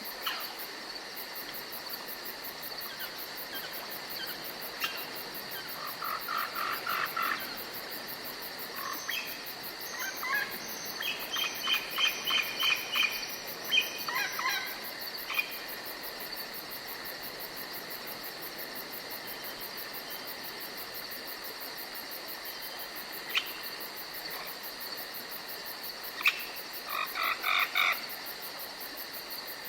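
Night-time nature ambience: a steady chirring of crickets, with frogs croaking in bursts of rapid repeated calls, in two clusters near the middle and again near the end.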